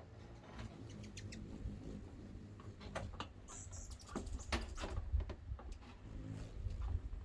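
Hummingbirds giving many short, squeaky chip calls, scattered irregularly, over a steady low rumble.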